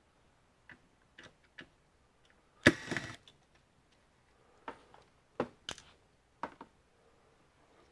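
Screwdriver, screws and plastic parts being handled while taking apart an all-in-one computer: scattered light clicks and taps, with one louder, longer clatter about three seconds in.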